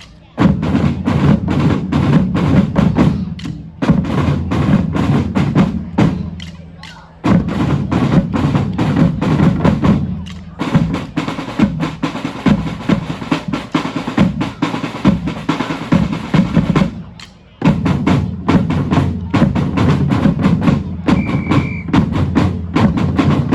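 Drum band playing a fast, dense rhythm in phrases that break off briefly several times, about 4, 7, 10 and 17 seconds in, before starting again. A brief high tone sounds about 21 seconds in, and the drumming stops right at the end.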